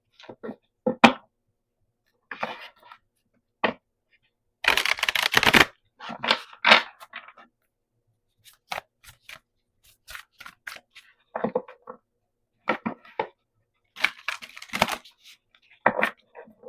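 An oracle card deck and its box being handled on a table: scattered taps, clicks and rustles of the cards, with one longer rustle about five seconds in.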